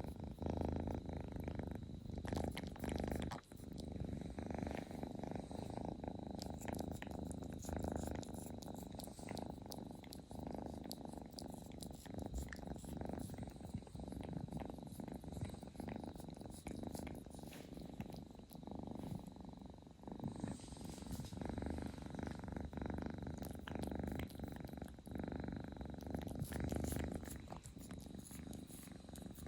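Kitten purring steadily and close up, a continuous low pulsing rumble.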